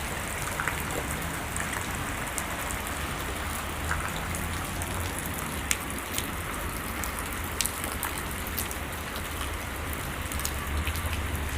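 Steady rain falling, with scattered single drops striking close by as sharp ticks.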